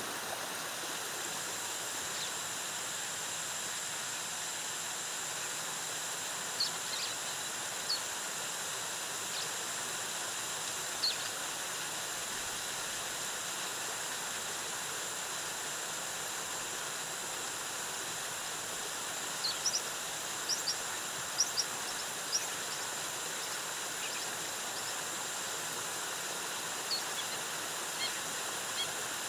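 Waterfall cascading in a steady rush, with a constant high hiss. Short, high bird chirps come through it now and then: a few about a quarter of the way in, a cluster of them past the middle, and more near the end.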